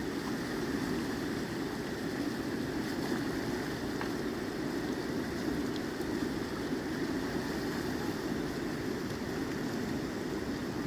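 Steady rushing of river water, an even noise that holds without a break.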